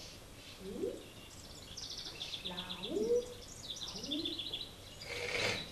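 Bird chirping in quick high twittering trills, mixed with three short low calls that each rise in pitch.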